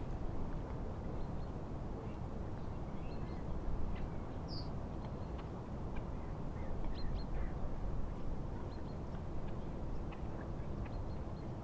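Steady wind and lapping lake waves, with birds chirping here and there: short, high notes scattered across the whole stretch.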